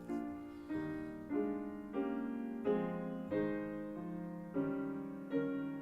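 Soft, slow piano music: sustained chords struck about once every second or less, each fading before the next.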